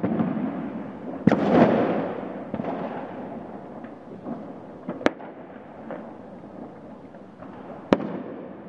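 Fireworks and firecrackers going off: three sharp bangs, the loudest about a second in with a long rolling echo after it, over a steady background of many more bangs and crackles.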